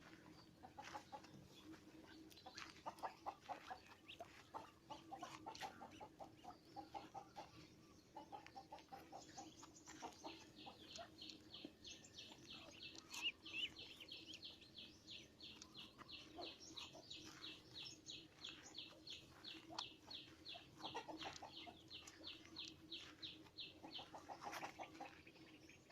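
Faint birdsong: short, low calls repeat near the start and again near the end. In the middle a bird gives a long, rapid series of high, even notes, about three a second, lasting over ten seconds.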